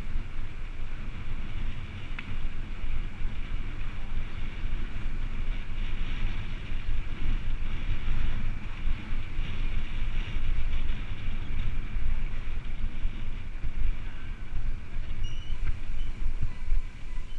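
Wind buffeting the microphone while riding a bike, with the rolling noise of the ride underneath: a continuous, unevenly pulsing low rumble with a fainter steady hiss above it.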